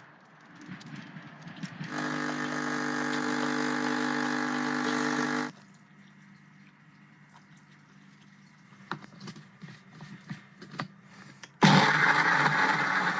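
A small motor runs twice: first a steady, pitched run of about three and a half seconds, then a second, hissier run of about two and a half seconds near the end. Scattered light clicks come in between.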